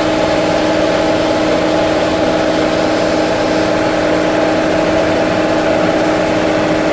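Steady mechanical drone with a constant pitched hum, unchanging throughout.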